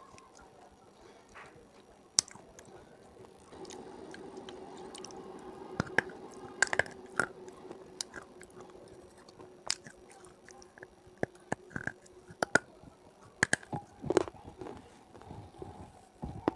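Close-miked mouth chewing hard, brittle brown pieces, with sharp crunches scattered throughout; the loudest comes about two seconds in and a run of them follows later.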